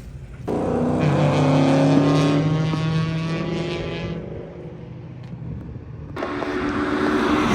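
Vehicle engine at speed on a track. It cuts in abruptly and pulls with a slowly rising pitch for a few seconds, then falls away. A second stretch cuts in near the end, its pitch dropping.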